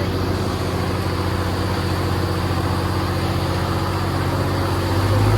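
Tractor diesel engine running steadily at low revs, then revving up and getting louder near the end.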